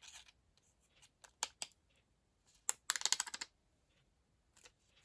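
Scissors snipping across a sheet of stick-on bling gems: a few short separate snips, then a quick run of clicks about three seconds in.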